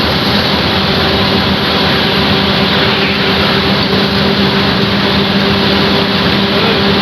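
A motor vehicle running steadily: a constant low engine hum at one pitch under a loud, even rush of road or wind noise.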